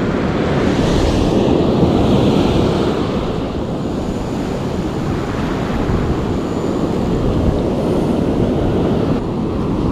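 Ocean surf breaking and washing up the sand, with wind buffeting the microphone.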